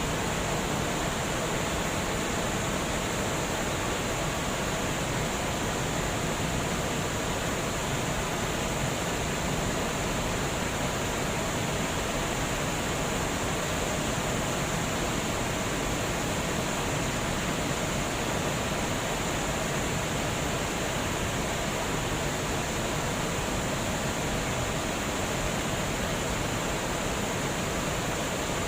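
Water rushing over a dam, a steady unbroken roar of flowing water.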